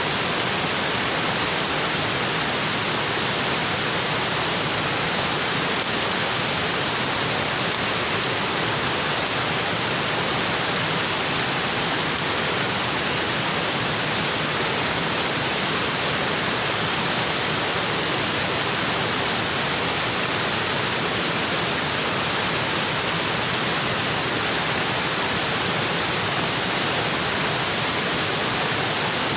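Waterfall: water falling steadily onto rocks, a continuous even rush.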